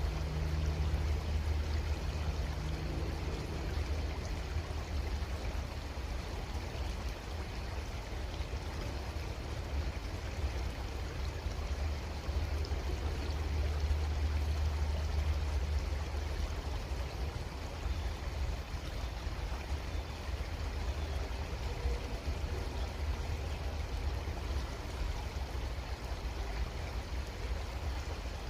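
Creek water flowing steadily, with a deep low rumble that swells and eases twice.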